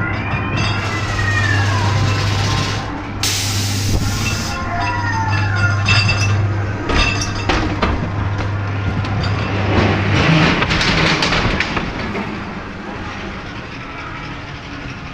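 Ghost train dark-ride car rolling along its track with clicks and knocks, under a steady low hum that stops about ten seconds in. Eerie sliding wails sound in the first few seconds, and a loud burst of hissing noise comes about three seconds in.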